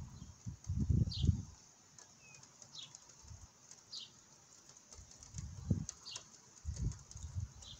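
A bird calling a short, high, falling chirp over and over, every second or two, over low irregular rumbles that are loudest about a second in and again near the end.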